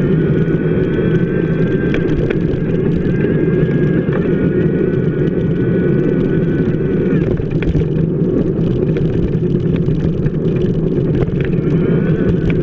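Steady rumble of a bicycle wheel rolling on wet pavement, heard from a camera mounted on the wheel's hub. A faint high whine rides over it, dropping away about seven seconds in and returning near the end.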